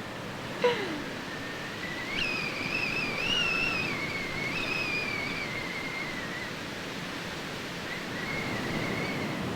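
A long, wavering high call from an animal, with pitch that rises and falls, lasting about four seconds and answered more faintly near the end, over a steady rushing natural background.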